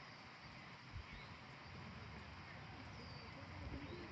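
Insects chirping: a high, evenly pulsed trill of about five pulses a second, over a low outdoor rumble.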